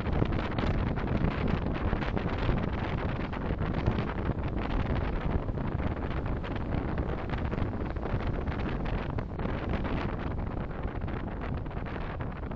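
Steady road and wind noise from a car driving in traffic, picked up by a dashcam microphone, with no distinct events.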